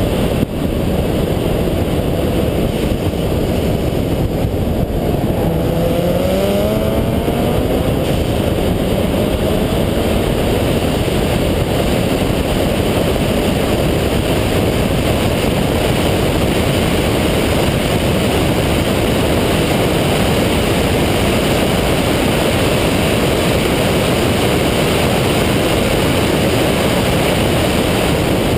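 Single-turbo Mazda RX-7's rotary engine running hard on track, heard through a loud, steady rush of wind and road noise. Its pitch rises about five to eight seconds in as it revs up.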